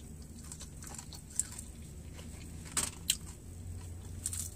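Mouth sounds of eating fried chicken wings: chewing, with a few sharp lip smacks about a second and a half in, twice close together near three seconds, and again near the end. A low steady hum runs underneath.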